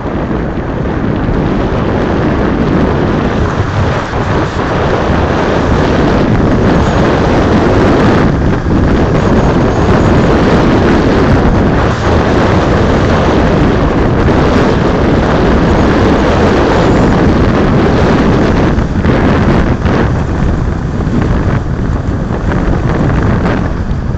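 Heavy wind buffeting the microphone, a loud steady rush, as from riding along on an electric wheel.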